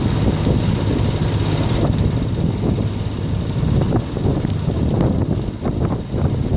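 Storm wind of 65-plus knots buffeting the microphone aboard a sailboat: a loud, continuous low rumble, with a few short, sharper bursts in the second half.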